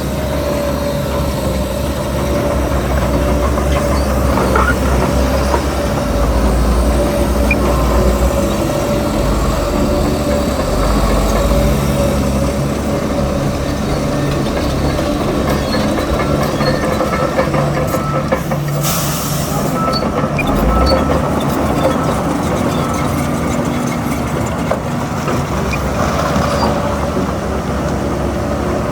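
Heavy diesel earthmoving machinery running steadily under load, a continuous engine rumble with a steady whine over it. A short hiss comes about two-thirds of the way through.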